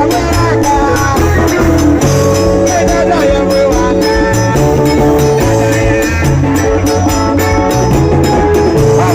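Live band music at full volume: a steady bass line and held keyboard-like tones under fast, even shaker or hi-hat strokes, with some singing.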